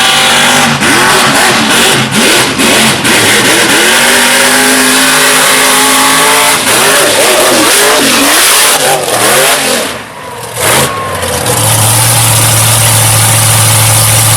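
High-horsepower mega mud truck engine revving hard, its pitch swinging up and down with a few brief cut-outs early on. About ten seconds in it drops away sharply, then a steady low engine drone picks up for the last few seconds.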